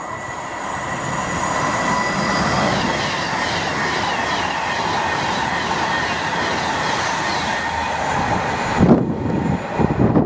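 Class 390 Pendolino electric train passing through at speed: a dense rushing noise with a steady high whine and faint falling tones above it. About nine seconds in it gives way abruptly to gusty wind noise on the microphone.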